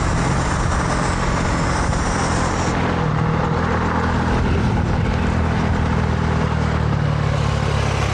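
A dirt bike ridden at speed: a steady drone whose pitch steps up and down a few times, over a heavy rush of wind on the microphone.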